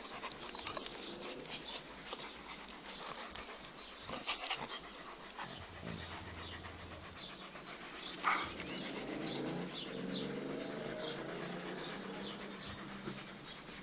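A dog making sounds, with many short sharp clicks and scuffles throughout.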